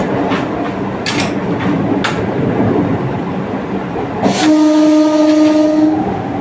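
Electric multiple unit (EMU) local train running, wheels clacking over rail joints above a steady rumble. About four and a half seconds in, a train horn sounds one steady note for about a second and a half.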